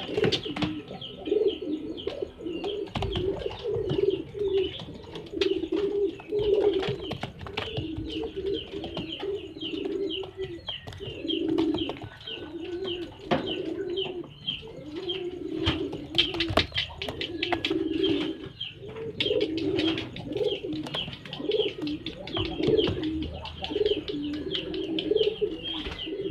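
Male racing pigeon cooing over and over in its courtship drive (giringan), a continuous run of low coos, with high chirping and scattered sharp clicks alongside.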